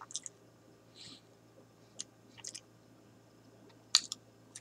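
A man chewing a mouthful of burger close to the microphone: scattered short, wet mouth clicks and smacks with quiet between them, the sharpest about four seconds in.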